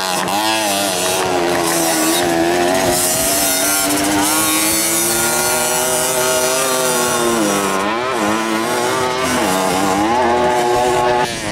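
Small 50 cc motocross bike engine revving hard, its buzzing pitch rising and falling as the rider works the throttle over the track, with two brief drops in revs in the second half.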